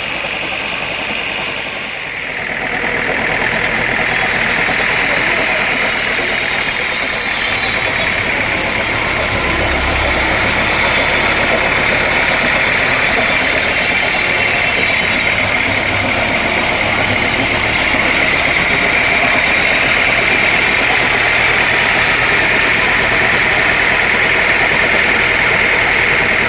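Sawmill machinery running steadily, swelling louder about two seconds in and then holding a constant, even pitch.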